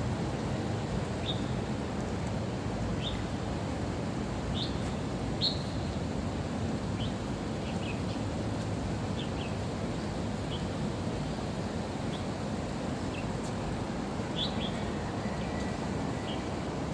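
Birds singing: short, high chirps scattered irregularly, over a steady low background rumble.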